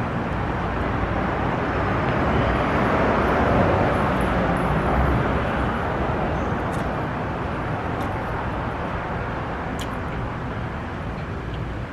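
Road traffic: a passing vehicle's noise swells to a peak a few seconds in, then slowly fades.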